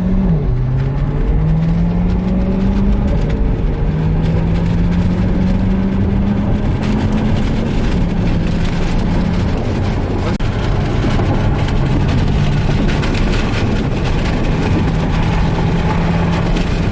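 C8 Corvette Stingray's 6.2-litre V8 accelerating through the gears: the engine note climbs and drops at each upshift, right at the start and again about three seconds in, then rises more slowly and settles to a steady pitch. Road and tyre noise grows over the second half.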